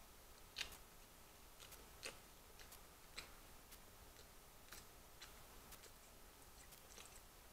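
Near silence, broken by about half a dozen faint, irregularly spaced mouth clicks and smacks of chewing fried chicken.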